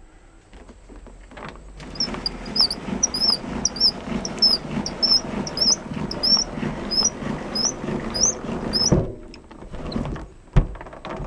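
Rhythmic high squeaking, about two squeaks a second, over a rubbing, scraping noise. It starts about two seconds in and stops about nine seconds in, followed by a couple of sharp knocks.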